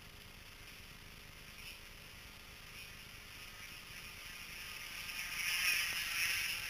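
High-pitched electric motor whine of a Pro Boat PT-109 RC model boat running on the water, swelling louder over the last couple of seconds as it comes closer.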